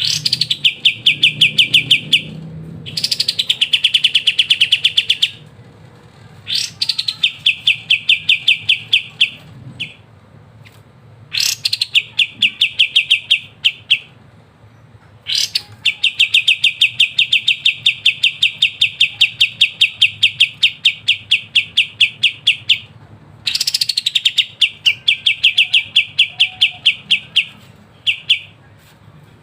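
Kapas tembak songbird singing its rapid 'ngebren' song: repeated phrases of a fast, even trill of many notes a second, each phrase opening with a sharp downward-sweeping note, with brief pauses between phrases and one long phrase of about seven seconds in the middle.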